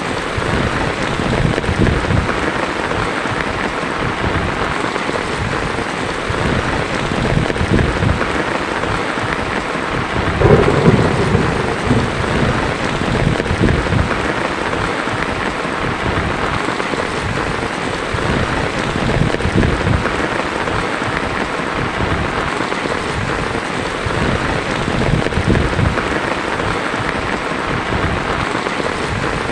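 Heavy rain falling steadily on a tin roof, with thunder rumbling; the loudest thunder burst comes about a third of the way in.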